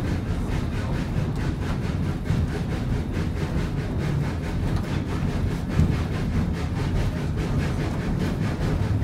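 Ride noise aboard a narrow-gauge train hauled up a steep grade by a 1926 Baldwin 2-8-0 steam locomotive: a steady low rumble of the cars on the rails with a faint, fast regular beat running through it. A single louder knock comes about six seconds in.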